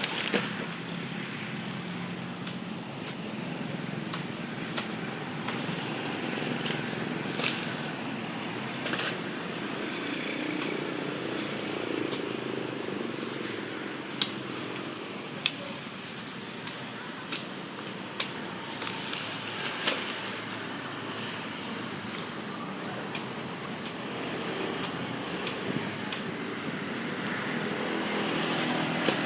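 Sugarcane being cut by hand: irregular sharp chops and cracks every second or two over a steady low rumble.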